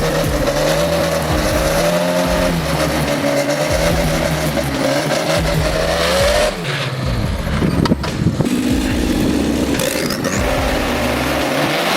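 Racing tractor's engine running hard with a wavering pitch, and a sharp knock about eight seconds in.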